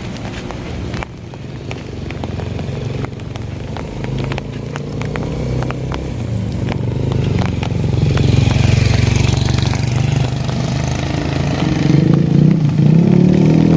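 A vehicle engine drawing closer and growing steadily louder, its pitch bending in the last couple of seconds, with scattered sharp clicks over it in the first half.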